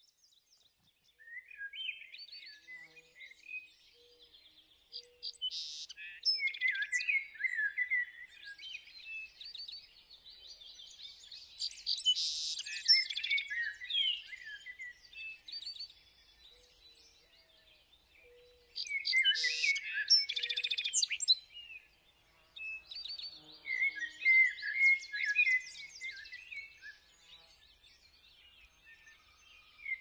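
Songbirds chirping and twittering in a busy chorus, starting about a second and a half in and coming in bursts with quieter gaps. A few soft low notes sound underneath.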